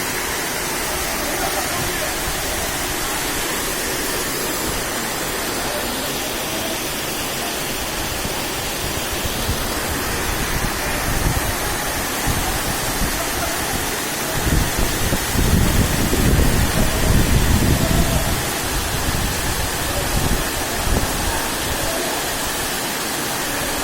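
Heavy rain pouring steadily, a dense hiss. About two-thirds of the way through, a low rumble swells for a few seconds and then fades.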